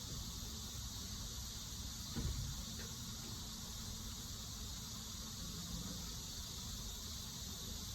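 Insect calling with a steady, unbroken high-pitched drone. A single soft low bump comes about two seconds in.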